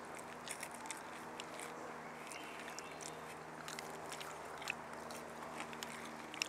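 Quiet crunching and chewing of fried spiral-cut hurricane potatoes on skewers, with scattered small crisp clicks over a faint steady background.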